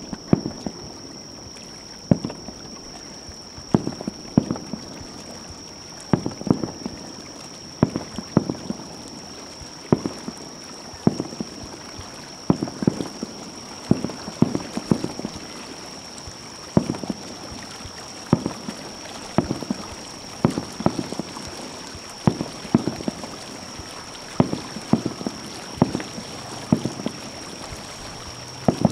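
Aerial fireworks shells bursting in an irregular barrage of sharp bangs, about one or two a second.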